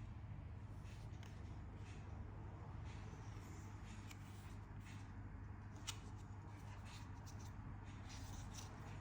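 Faint handling sounds of unboxing a phone: soft rustles and light clicks of packaging and the handset, with one sharper click about six seconds in, over a low steady hum.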